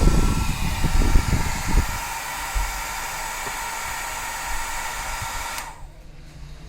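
Freshly repaired hair dryer running on a series test connection: a steady rush of air with a faint high whine, and low buffeting in the first two seconds. It cuts off about five and a half seconds in.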